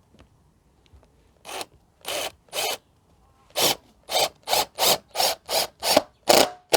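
Parkside cordless impact driver driving a 50 mm Torx screw into stacked wooden blocks in short trigger bursts. Three bursts come first, then eight in quicker succession in the second half as the screw goes home.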